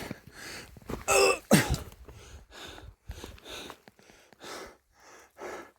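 A man clearing his throat about a second in, followed by a run of short soft noisy sounds, about three a second.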